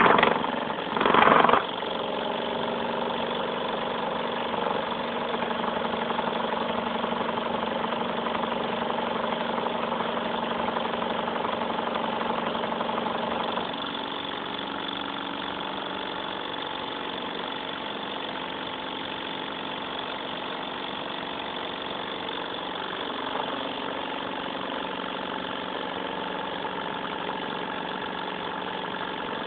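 Stirling engine running steadily, a mechanical hum with a few steady tones. Two short loud bursts come right at the start, and about halfway through the running sound turns slightly quieter.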